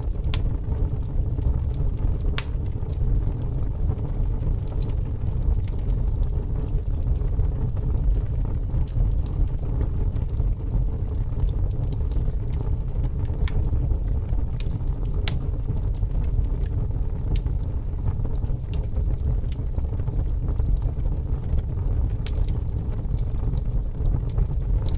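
Fire burning: a steady low rumble of flames with sharp crackles and pops at irregular moments throughout.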